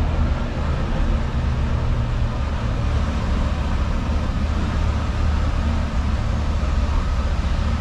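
Multi-car tour tram running steadily, heard from on board: a continuous low engine drone with road noise.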